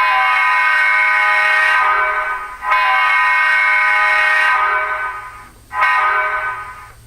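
Sampled diesel locomotive air horn from the HO-scale SD40-3's LokSound sound decoder, played through the model's small onboard speaker. It gives two long blasts and then a shorter third, the opening of a grade-crossing horn signal.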